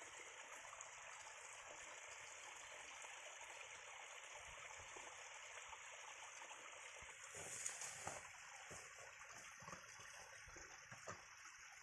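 Faint, steady trickling of running water, with a few brief clicks about three quarters of the way through.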